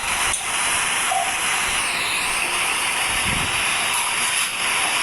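Steady loud hiss, with a brief low thud about three seconds in.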